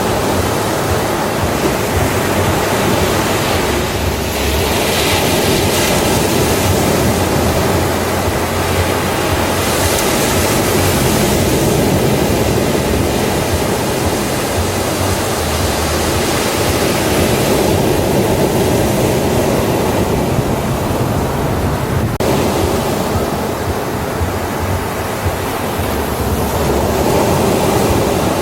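Ocean surf washing onto a beach: a continuous roar of breaking waves that swells in hiss a few times, notably about four and ten seconds in.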